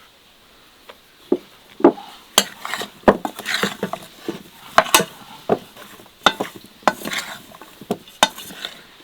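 Irregular clinks, knocks and scraping of kitchen utensils against dishes or a pot, as in stirring or handling food. They start about a second in and stop just before the end.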